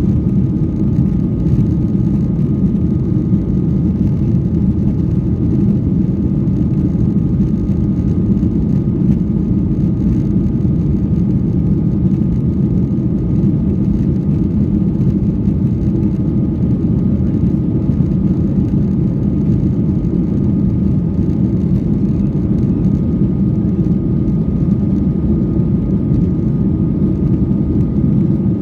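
Airliner engine and airflow noise heard inside the cabin during takeoff: a loud, steady low rumble with a faint steady high tone over it, unchanging throughout.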